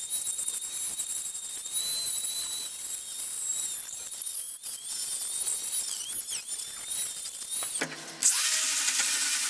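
A small high-speed power tool cutting into bamboo root, whining steadily with short dips in pitch as it takes load. A little before the end the sound changes abruptly to a louder, harsher grinding noise.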